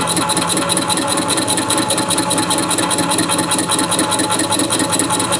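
Metalworking machine tool running steadily at slow speed and feed while cutting an engine base, with a fast, even pulsing throughout.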